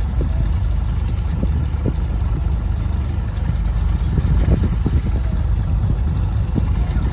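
Fishing boat's engine running steadily with a low drone, with faint irregular knocks over it.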